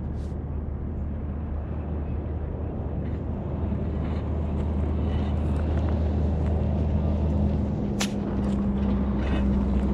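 An engine idling steadily, its low hum changing pitch a little about three-quarters of the way through. A sharp crack comes about eight seconds in and another at the very end.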